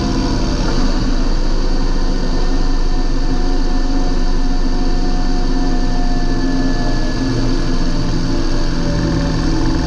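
John Deere 8320 tractor's six-cylinder diesel engine running at a steady speed.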